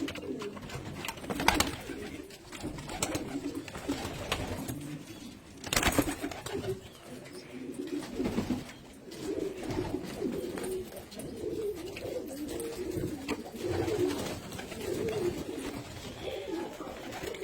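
Syrian domestic pigeons (Birmeli/Barbarisi) cooing in an ongoing low, warbling chorus. A few sharp knocks or clicks cut through, the loudest about six seconds in.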